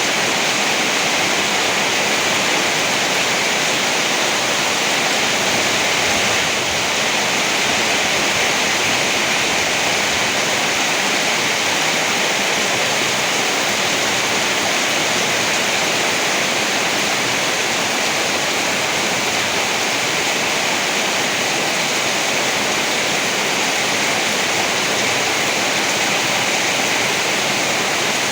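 Rain falling steadily in a dense, even hiss, with no thunderclaps.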